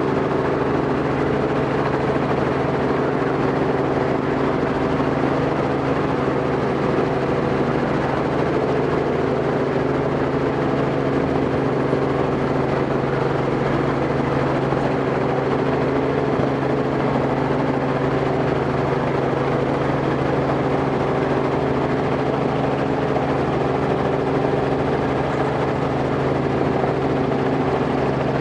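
Robinson R44 helicopter's engine and rotors running steadily.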